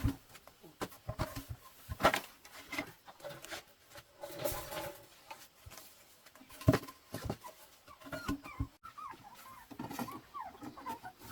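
Scattered knocks and rustling, then faint, quick, high-pitched chirping calls from small animals in the last few seconds.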